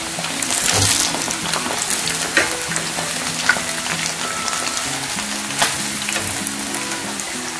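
Crumb-coated chicken wings deep-frying in a pan of oil: a steady sizzle with crackling, and a few sharp clicks as chopsticks turn the wings. Soft background music plays underneath.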